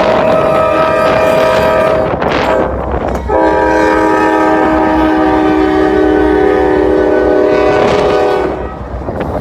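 Freight locomotive horn sounding for a crossing: a blast that ends about two seconds in, then a longer blast of about five seconds with several tones sounding together. Strong wind buffets the microphone underneath.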